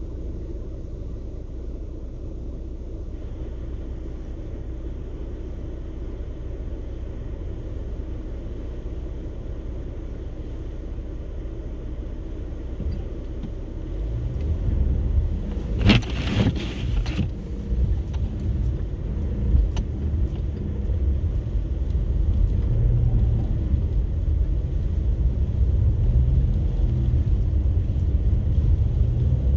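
Car driving on a snowy road: a steady low rumble of engine and tyres that grows louder about halfway through, with a brief loud rush of noise soon after.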